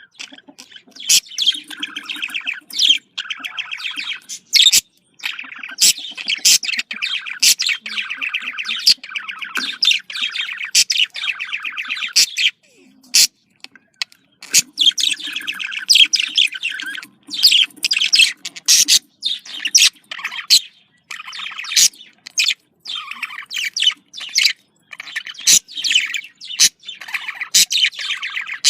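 Budgerigars chattering and warbling in long rapid runs, broken by sharp high chirps, with a brief pause a little before halfway. This is budgie courtship chatter of the kind played to stimulate breeding.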